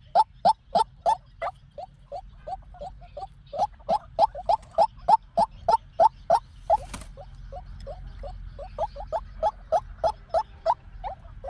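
White-breasted waterhen calling: a long run of short, rapidly repeated notes, about three to four a second, swelling and fading in loudness. It is the call used as a lure to trap waterhens. A brief hiss about seven seconds in.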